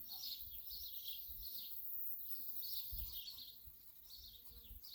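Songbirds chirping and singing in repeated short high phrases, several a second, over a faint low outdoor rumble.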